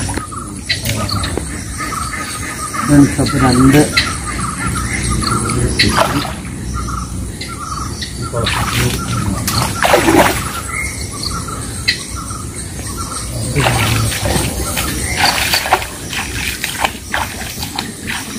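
A bird calling in short notes repeated over and over, with a few sharp sounds scattered through and a brief low voice about three seconds in.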